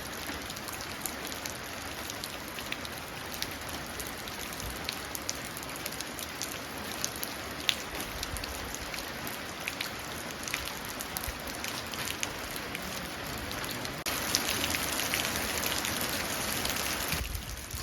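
Steady rain falling into a puddle, with many individual drops splashing distinctly. About three-quarters of the way through it suddenly gets louder and heavier for a few seconds, then drops back abruptly.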